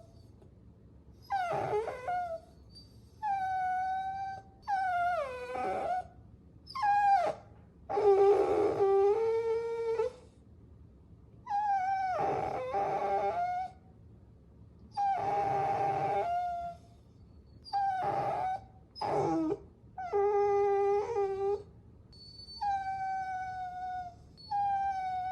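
Puppies whining: about a dozen high-pitched whines and whimpers with short pauses between them, some drawn out and several sliding down in pitch.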